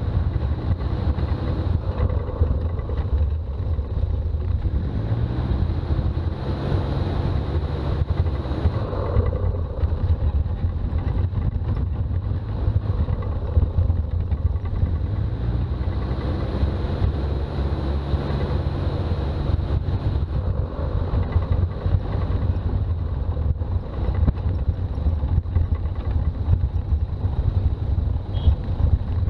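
Toyota BJ40 Land Cruiser driving, a steady engine and road rumble, with the engine note rising and falling a couple of times.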